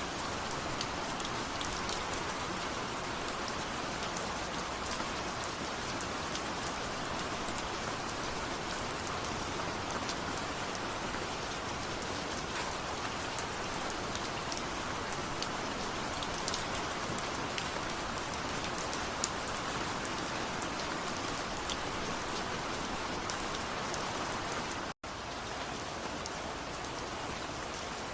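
Steady rain, an even hiss with scattered individual drops ticking through it. Near the end it cuts out for an instant, then resumes.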